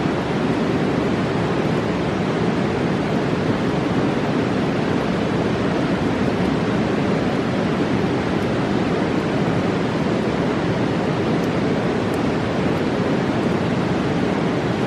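Roaring mountain river rushing steadily, a constant even roar of fast water.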